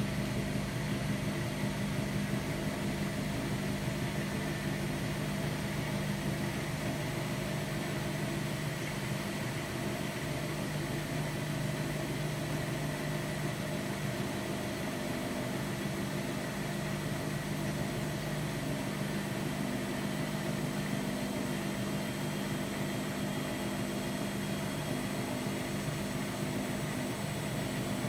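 Hotpoint-Ariston Aqualtis AQD972F washer-dryer running with a steady low hum and a faint higher whine, without change.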